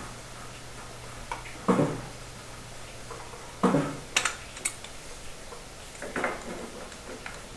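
Black iron gas pipe fittings knocking and clinking as they are handled and threaded together. There are about five separate metallic knocks, the loudest near two seconds and near four seconds in, over a low steady hum.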